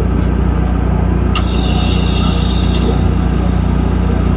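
A motor vehicle's engine idling with a steady low drone. About a second and a half in, a sharp click is followed by a high crackling hiss that lasts about a second and a half.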